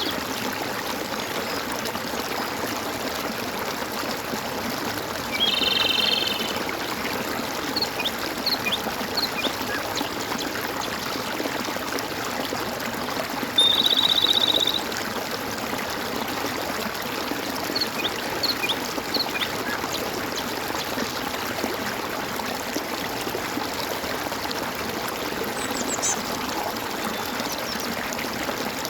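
Stream gurgling and trickling steadily, with a loud buzzy call about a second long heard twice, and scattered short high chirps and a few high downslurred notes from birds.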